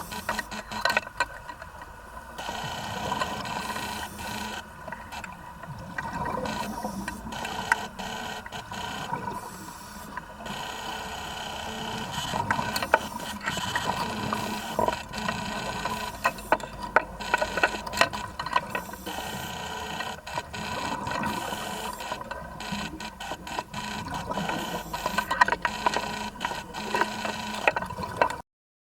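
Vacuum pump used for sea urchin harvesting running with a steady hum and tone, overlaid by a continual clatter of sharp clicks and rattles; it cuts off suddenly near the end.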